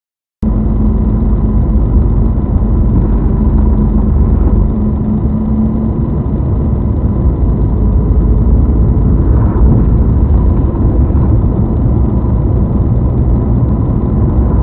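Vehicle running on the road: a loud, steady, low rumble of engine and road noise through a camera's microphone, starting abruptly about half a second in.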